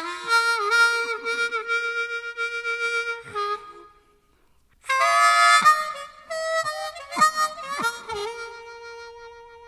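Harmonica playing two short phrases of held notes, with several notes bent down in pitch and back, and a pause of about a second between the phrases.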